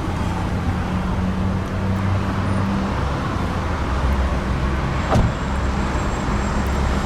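2015 Lexus NX 200t's 2.0-litre turbocharged four-cylinder idling steadily, a low even hum. A single sharp knock about five seconds in.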